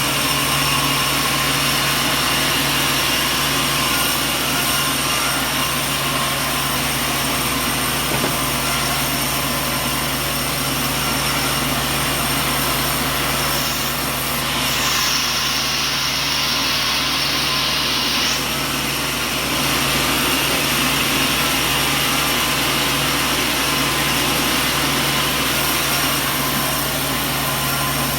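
Sawmill machinery running steadily with a constant hum. For about four seconds in the middle, a higher hiss comes in over it and then stops.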